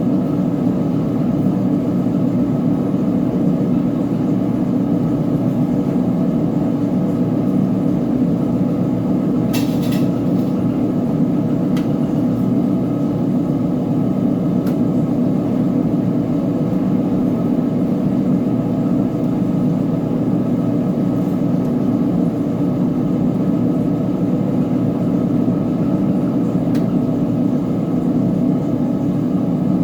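Uni-Mac UniMat 35 (UC35MD2) commercial front-load washing machine running with a load of blankets, a steady, even rumble.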